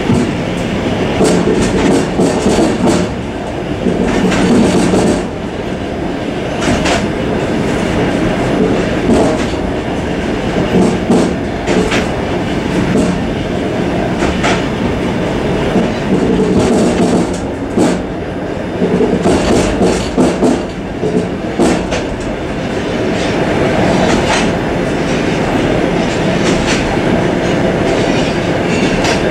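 Suburban train running along the track, heard from inside its vestibule: a steady loud rumble of wheels on rail, broken by irregular clacks as the wheels pass over rail joints.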